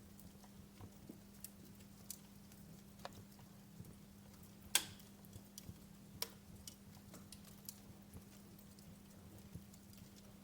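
Wood fire in a fireplace crackling faintly, with scattered sharp pops, the loudest a little under halfway through. A faint steady low hum runs underneath.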